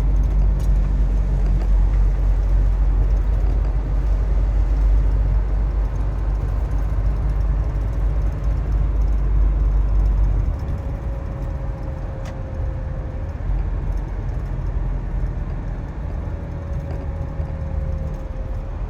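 Steady low rumble of a motor vehicle on the move, engine and road noise, easing somewhat about ten seconds in. A faint steady tone comes in twice in the second half.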